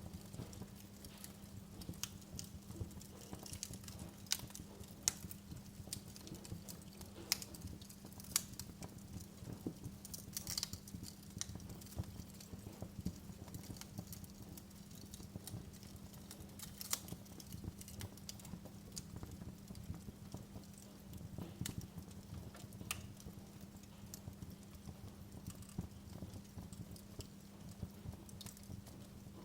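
Wood fire crackling in a fireplace: irregular sharp pops and snaps, a few louder ones, over a soft low rumble with a steady faint hum underneath.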